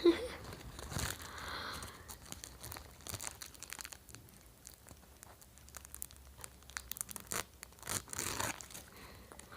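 Food-packaging wrappers being crumpled and torn by hand, with irregular crinkling and crackling. There is a sharp crackle at the very start and denser rustling about a second in and again near the end.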